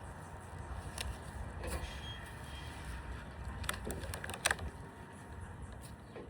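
Steady low outdoor background rumble, with a few short sharp clicks or snaps, the loudest about four and a half seconds in.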